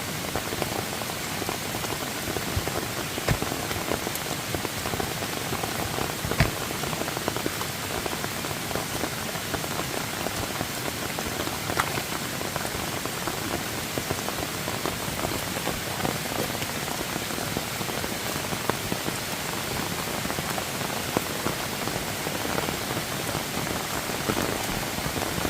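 Steady heavy rain falling, a dense even hiss, with a few sharper knocks of drops or contact, the loudest about six seconds in.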